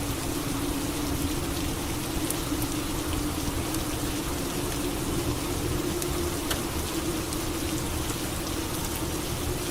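Steady rain falling, an even hiss with a few sharp drip ticks, over a low steady hum.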